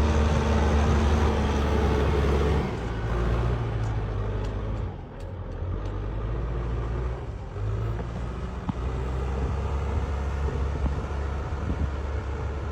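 Tractor engine running steadily. It is louder for the first few seconds, then settles to a lower level, and its note shifts a couple of times.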